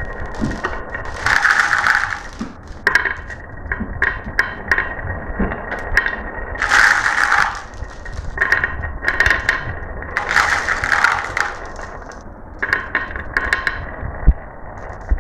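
Marbles rolling and clattering down a marble run track: a string of sharp clicks and knocks, with rattling runs about a second long three times.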